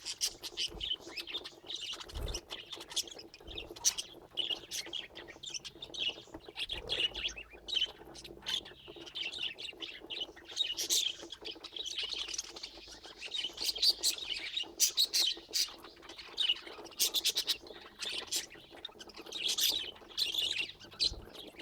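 Pet budgerigars chattering and chirping without pause, a dense stream of short, rapid, high twittering calls.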